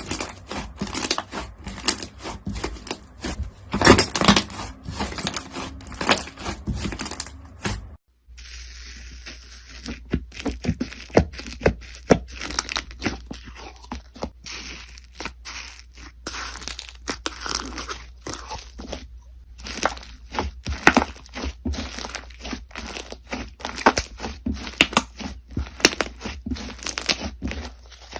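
Crunchy slime being squeezed and worked, a dense run of irregular crackles and pops. There is a brief break about eight seconds in, after which the crackling goes on over a faint low hum.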